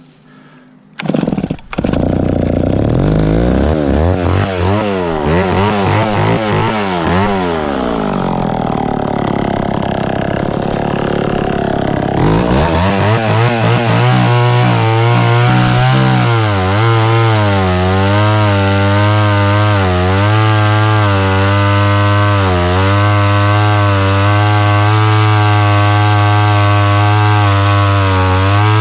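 Two-stroke chainsaw catching about a second in, its engine revved up and down for several seconds. From about halfway through it runs at steady high revs, with small dips in pitch as it cuts wood.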